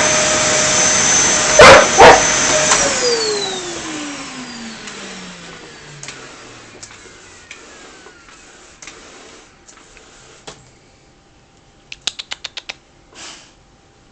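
A vacuum cleaner runs with a steady whine while a dog barks twice, sharply, about two seconds in. The vacuum is then switched off and its motor winds down, the whine falling in pitch and fading over several seconds. Near the end comes a quick run of clicks.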